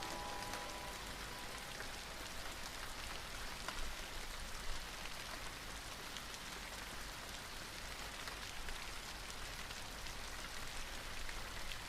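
Steady rain falling, an even hiss with scattered sharper drop ticks; the last held notes of the slowed, reverbed song fade out in the first second.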